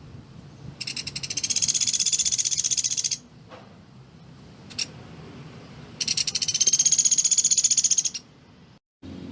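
Pelatuk beras woodpecker giving its rapid-fire rattling trill twice, each a dense, high run of notes lasting about two seconds.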